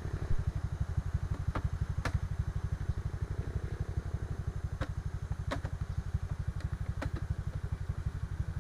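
Motorcycle engine running at steady, low revs with an even low pulsing, and several sharp knocks and clatters from the bike jolting on a rough road.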